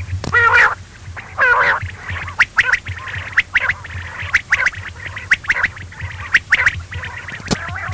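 Quail calling: two warbling, buzzy calls in the first two seconds, then a run of short, sharp chirps over a steady low hum.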